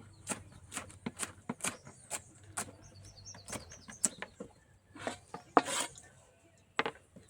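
A knife chopping scallion on a cutting board, sharp knocks at about two a second. Birds chirp faintly in the middle.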